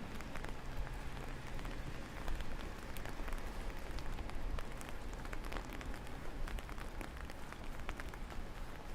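Rain falling steadily: a constant hiss with many small drop ticks, over a low rumble.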